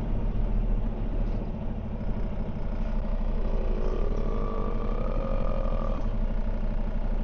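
Semi-truck's diesel engine running with a steady low, evenly pulsing hum. A faint high whine comes in for a couple of seconds about midway.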